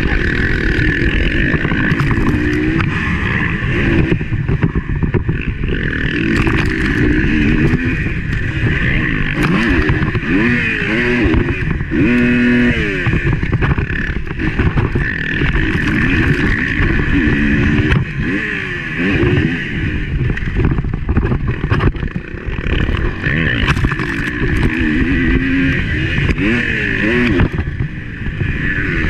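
Motocross bike engine heard from a camera mounted on the bike, revving up and falling back again and again as the throttle opens and closes, with frequent knocks and a steady rush of wind.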